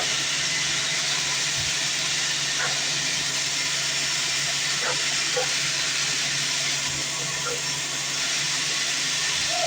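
Sawmill bandsaw running: a steady hiss over a constant low machine hum.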